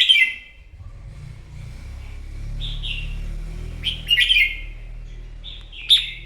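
Red-whiskered bulbul singing its loud territorial 'fighting' song: short, quick whistled phrases, one right at the start and others about two and a half, four and six seconds in. A faint low rumble runs under the middle.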